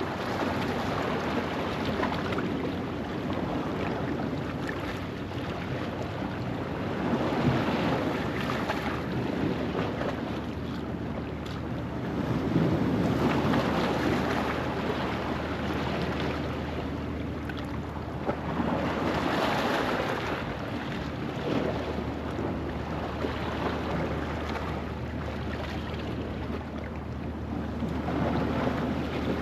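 Ocean waves washing over a rocky shoreline at low tide: a continuous rush of surf that swells louder about every six seconds as each wave comes in.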